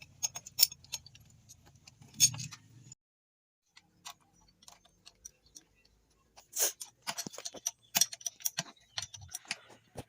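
Metal tools and transmission parts clicking and clinking against each other in irregular taps, with a short silent gap a few seconds in and a busier run of clinks near the end.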